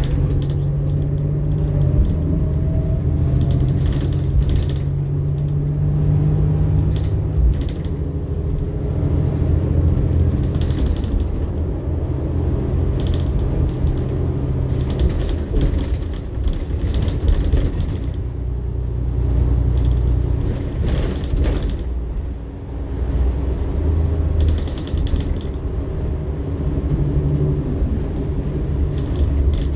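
Cummins-Westport ISL-G natural-gas engine of a New Flyer XN60 articulated bus running, heard from inside, its pitch changing several times. Interior panels and fittings creak and rattle throughout, with short clicks here and there.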